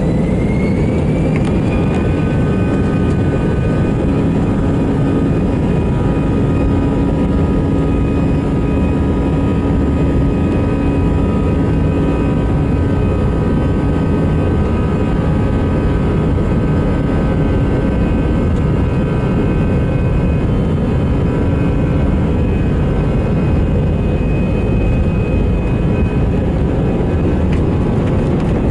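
Airbus A319 jet engines at takeoff power, heard from inside the passenger cabin: a whine rises in pitch over the first two seconds, then holds steady with several other tones over a loud, even rumble.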